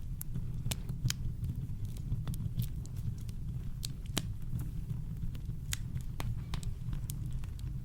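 Campfire crackling, with sharp irregular pops and snaps over a steady low brown-noise rumble.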